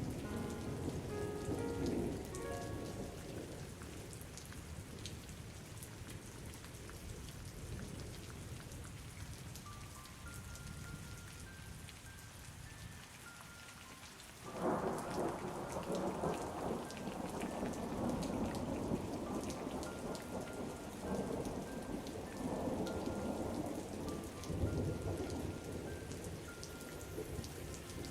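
Steady rain falling. About halfway through, a long rolling rumble of thunder breaks in suddenly and carries on. Faint, sparse melody notes sit underneath.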